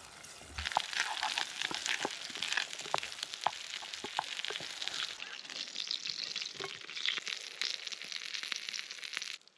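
Burger patties and an egg sizzling in a grill pan over campfire coals: a steady frying hiss with many sharp pops and crackles of spitting fat. It cuts off suddenly near the end.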